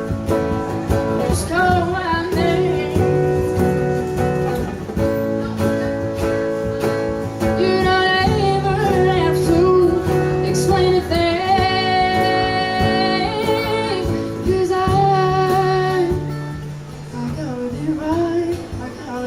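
Live acoustic music: a woman's voice singing long held, wavering notes over a strummed acoustic guitar.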